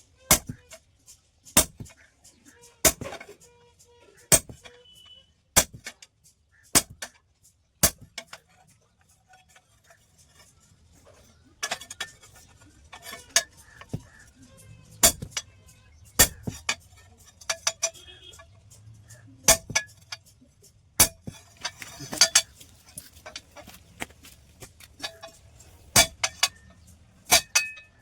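Hand hammer blows on a steel plate being forged into a hoe: single sharp metallic strikes about every second and a quarter, a pause, then more irregular strikes with lighter clinks between them.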